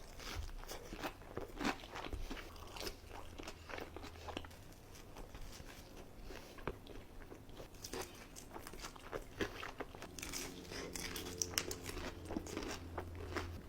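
Close-miked mukbang eating: crisp crunching bites and chewing, with a busier run of crunches near the end.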